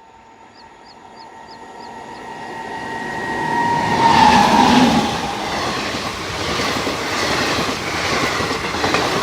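A train approaching and passing at speed, growing steadily louder; a steady tone from it drops in pitch as it goes by about four seconds in, then the wheels clatter rhythmically over the rail joints.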